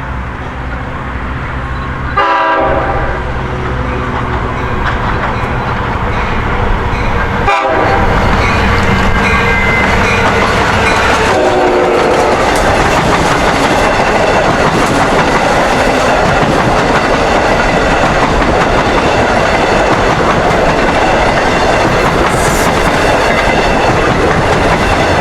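Long Island Rail Road DM30AC dual-mode locomotive sounding its horn three times for the grade crossing as it approaches, the middle blast short, then the locomotive and its eight-car train passing close by, loud and steady, with the wheels clicking over the rail joints.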